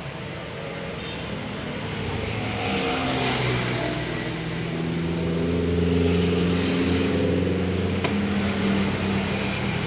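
A motor vehicle engine running, its pitch shifting up and down as it revs and growing louder towards the middle. A single sharp click comes about eight seconds in.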